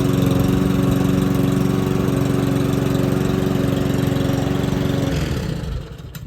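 Toro TX 159 lawn mower engine running steadily, then shut off about five seconds in, its pitch falling as it winds down to a stop. Two sharp clicks follow near the end.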